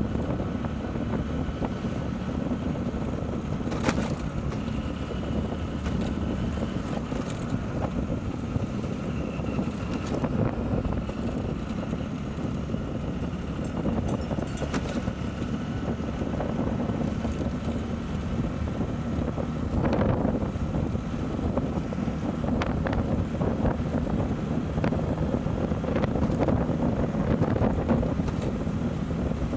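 Motorcycle engine running steadily on the move, with wind rushing over the microphone and a few short clicks.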